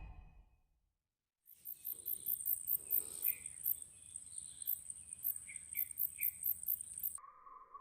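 Insects chirping in a high, pulsing drone with scattered bird chirps, as field ambience. It starts after a brief silence and cuts off abruptly near the end, giving way to a steady electronic-sounding tone.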